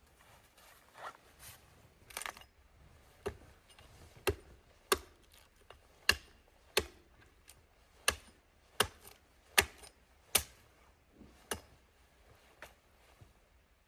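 A run of about a dozen sharp knocks, like repeated chopping strikes, a little under one a second. The strikes grow loud after the first few seconds and then weaken and thin out near the end.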